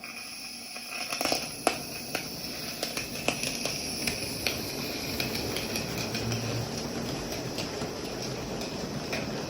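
Live-steam model Shay locomotive running: a steady hiss of steam and running gear, with scattered sharp metallic clicks and clanks that are thickest in the first few seconds.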